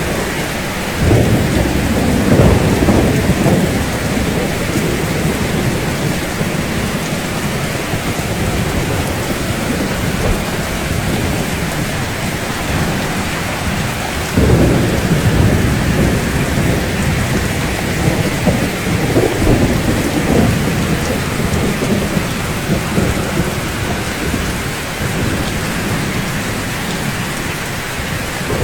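Steady rain hissing, with deep rumbles of thunder rolling in about a second in, again around the middle, and once more a few seconds later.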